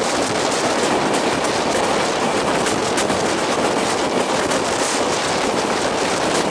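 LHB passenger coaches running on the rails, heard on board: a steady rushing rumble of wheels on track with many small clicks and rattles.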